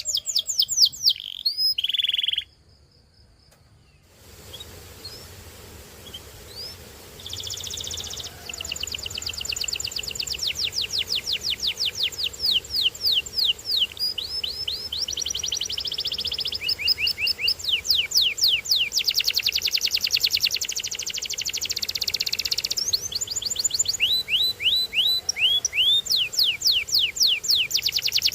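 Canary singing a long, varied song: rapid trills of quick downward-sweeping whistled notes repeated several times a second, alternating with buzzy rolls. The song breaks off briefly about two seconds in, then resumes softly a couple of seconds later and builds back into full trills.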